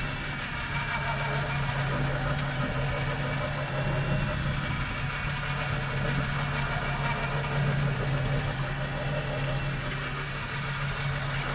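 Boat engine idling steadily in reverse gear with almost no throttle, holding the boat against the drift.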